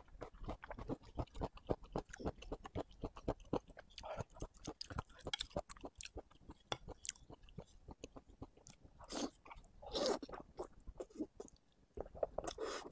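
Close-up wet chewing and mouth smacking of someone eating soft braised pig brain: a dense run of quick, sharp wet clicks, with a few longer, louder wet mouth sounds about four, nine, ten and twelve and a half seconds in.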